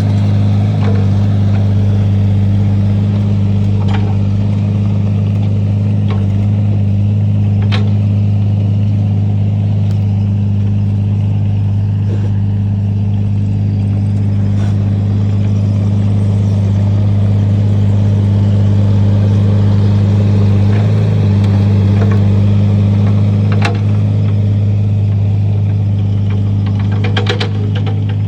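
An engine running steadily at a constant speed, a loud, low, even drone that neither rises nor falls, with a few faint ticks over it.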